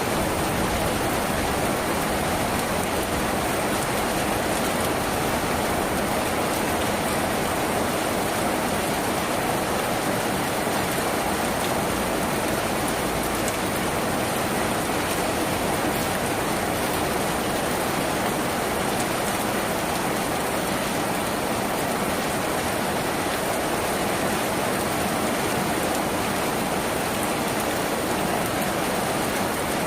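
Steady rain drumming on a tin roof, a dense, even patter that holds without a break.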